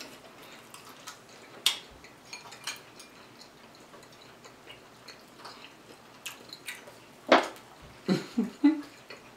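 Close-up eating sounds of barbecue pork riblets being chewed and gnawed off the bone by hand: wet chewing and lip-smacking with scattered small clicks. A sharper, louder click comes about seven seconds in, followed by a few brief murmurs of the voice.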